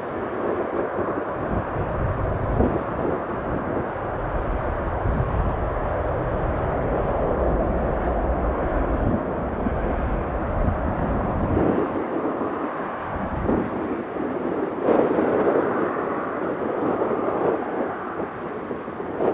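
An aircraft's engines, a steady broad rush. Wind buffets the microphone with low rumbling through the first dozen seconds, in gusty wind.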